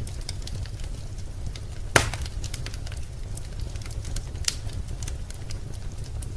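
Wood fire in a fireplace crackling, with scattered sharp snaps over a steady low rumble and one loud pop about two seconds in.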